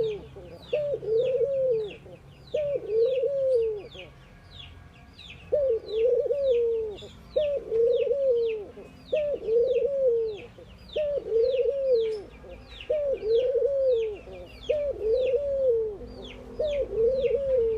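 Ringneck doves cooing over and over, each coo a short rising-and-falling note about once a second, with a brief pause about four seconds in. Quick high chirps from a smaller bird run along above the coos.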